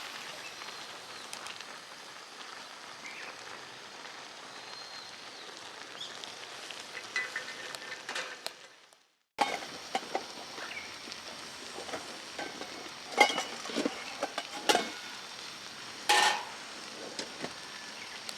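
Food sizzling in a pan: a steady frying hiss that fades out about eight seconds in and breaks off briefly, then comes back with several sharp clicks and knocks of utensils against cookware.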